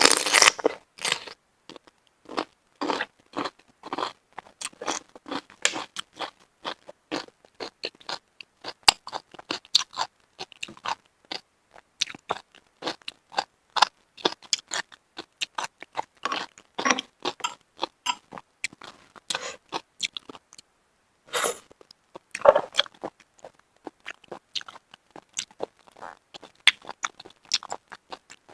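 Close-miked chewing of steamed shellfish: a continuous run of short, crisp crunches and wet mouth clicks, with louder bursts at the start and about 22 seconds in.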